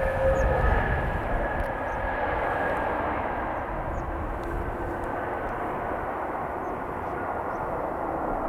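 Airbus A320 jet engines running after landing, a steady rush with a thin whine that slowly falls in pitch as the sound gradually eases off.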